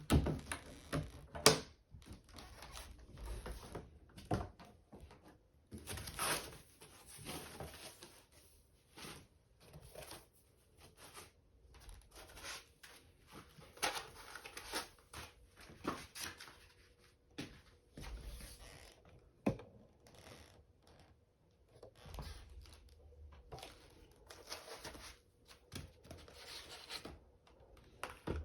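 Packaging being opened and handled: irregular bursts of tearing and crinkling, with scattered clicks and knocks. The sharpest knock comes about a second and a half in.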